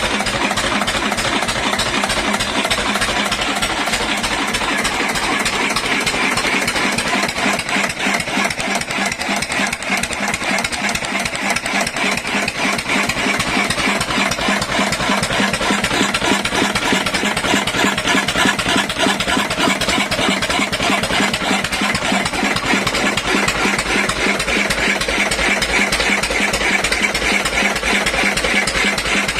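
Twin-cylinder Lister diesel engine, freshly overhauled with new piston pins and bearings, running steadily at an even speed with a rapid, regular firing beat.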